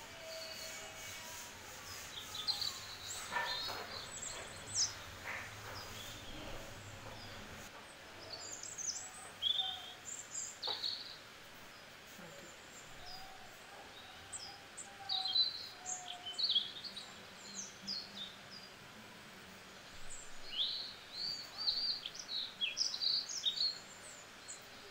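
Small birds chirping: many short, high calls and quick gliding notes come in clusters over a steady soft hiss.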